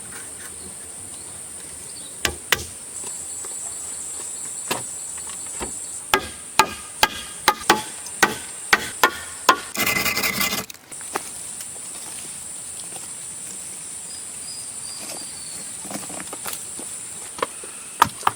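Insects chirring steadily in a high, even drone. Over it come two sharp knocks about two seconds in, then a run of about nine ringing knocks, two to three a second, followed by a noisy scrape or rattle lasting about a second, and two more knocks near the end.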